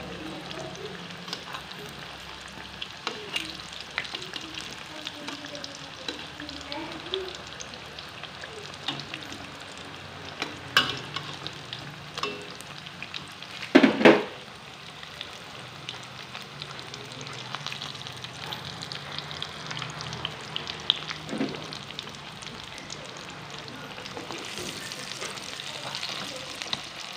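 Battered tofu skin deep-frying in hot oil in a wok: steady sizzling with scattered crackles. There are a few knocks, and one loud clatter about halfway through.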